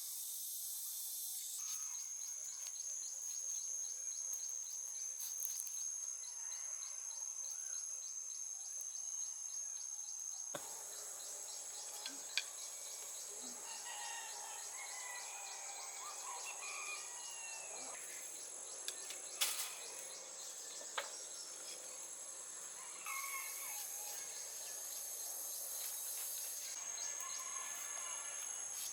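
Jungle ambience: insects trilling steadily at a high pitch while birds chirp, with a few sharp clicks. The background changes abruptly about ten seconds in.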